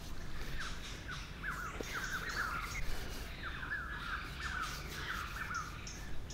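A bird calling in quick runs of short rising-and-falling chirps, in two bursts with a brief pause about halfway through.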